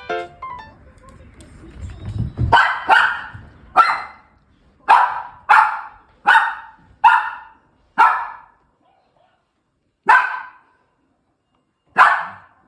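Toy poodle barking, about ten short, sharp barks roughly a second apart that begin a couple of seconds in, with longer pauses between the last few.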